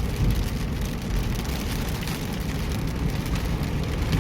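Car driving in rain: a steady low road and engine rumble, with faint scattered ticks of rain hitting the car.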